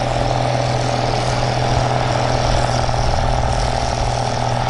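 Heavy engine running steadily at a constant pitch, with no revving.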